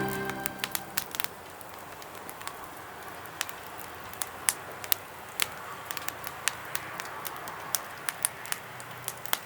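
A small fire of Ogalite sawdust briquettes crackling in a fire pit, with irregular sharp pops over a low steady hiss. Background music fades out at the very start.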